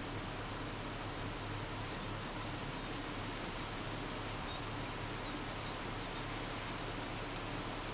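Faint, high bird chirps a few times over a steady outdoor background hiss.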